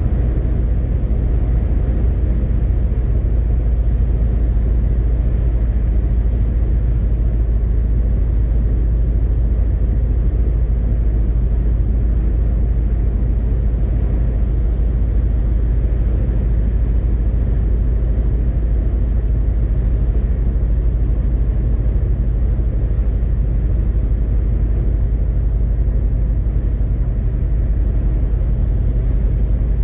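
Steady low drone of a MAN TGX 18.520 truck on the move, its 12.4-litre six-cylinder diesel and road noise running evenly with no change in pace.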